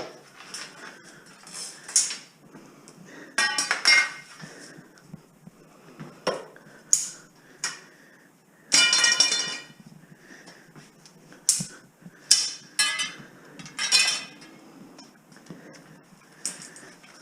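Scrap metal being handled: about a dozen separate clanks and rattles, some ringing briefly. The longest and loudest rings for about a second, roughly nine seconds in.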